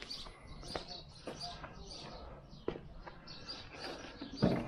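Small birds chirping repeatedly in the background, with a few faint clicks and one low thump near the end.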